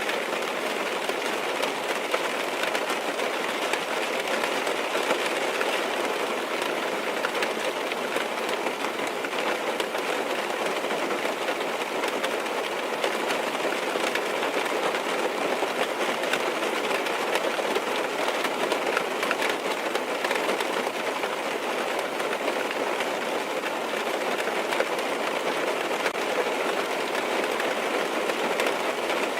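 Steady rain drumming on a car's roof and windows, heard from inside the cabin: a dense, even patter of drops with fine ticks.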